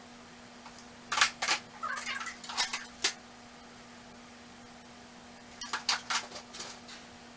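Metal hand tools clinking and clattering as they are handled and set into a toolbox, in two bursts of sharp clinks, the second starting about five and a half seconds in.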